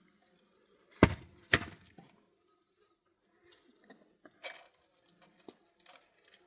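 Two sharp cracks about half a second apart, followed by scattered lighter clicks and taps.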